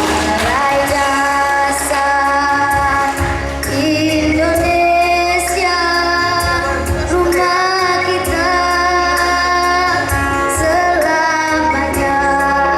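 A child singing in a high, shrill voice, holding long notes over an accompaniment with a steady bass line and light percussion.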